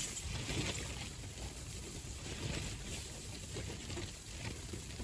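Strong gusty wind buffeting the microphone: an uneven low rumble with a rushing hiss above it.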